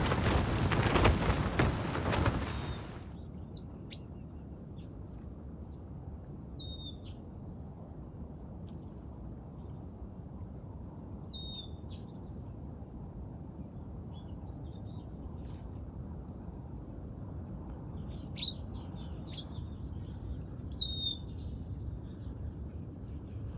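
A loud rushing noise for about the first three seconds cuts off abruptly. Then comes a faint steady low background, over which birds give short, high chirps that sweep downward, scattered a few seconds apart and bunched near the end.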